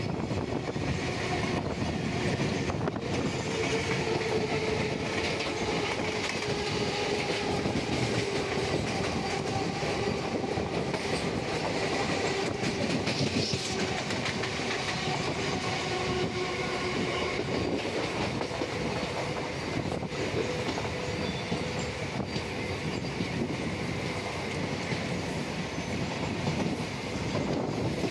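Freight train rolling along the rails: a steady rumble of wagon wheels with occasional clicks as they cross rail joints.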